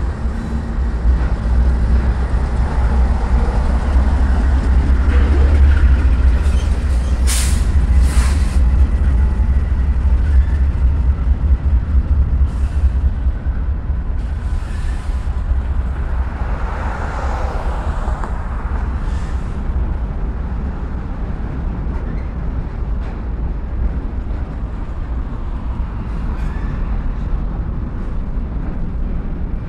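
Norfolk Southern freight train rolling slowly over a railroad bridge. A deep diesel locomotive rumble dominates for the first ten seconds or so, then eases to the steadier rolling noise of the freight cars. Two short, sharp hisses come about eight seconds in, with fainter ones later.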